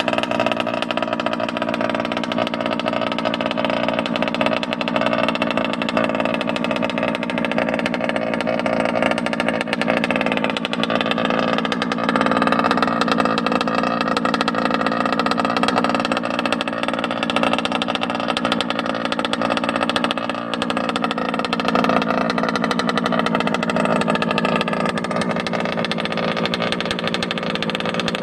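Two-stroke gas engine of a Losi DBXL 2.0 1/5-scale RC buggy, tuned with racing parts and a modified exhaust, running steadily with only small rises and falls in pitch.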